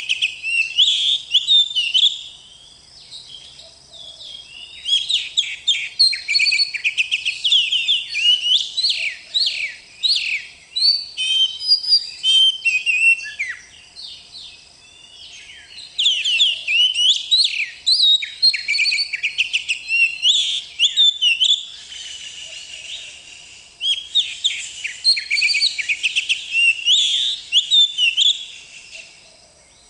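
Oriental magpie-robin singing a loud, rapid, varied song of whistles and chatter in long runs, broken by a few short pauses.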